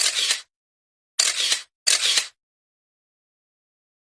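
Three short, sharp clicking bursts with dead silence between them, the first at the start and the other two a little over a second later and about half a second apart. They sound like edited-in sound effects of the camera-shutter kind.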